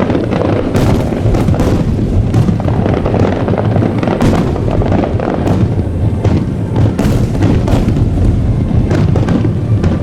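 Aerial fireworks shells bursting in rapid, overlapping succession: deep booms with sharp cracks and crackle on top, with music playing faintly underneath.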